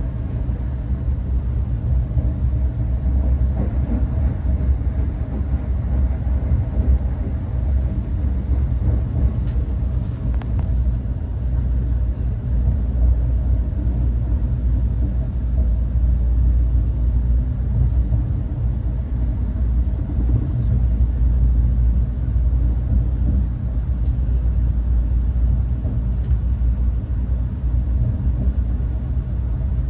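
Renfe class 130 (Talgo 250) high-speed train running, a steady low rumble heard from on board, with a few faint clicks about ten seconds in.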